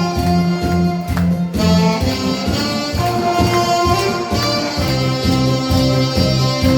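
Saxophone playing a sustained melody over a backing track with a steady, repeating bass beat.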